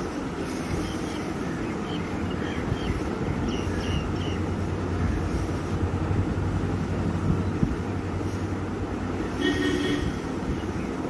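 Steady low rumble and hiss, like a vehicle engine running with wind on the microphone, with a few short high chirps in the first few seconds and a brief pitched call about nine seconds in.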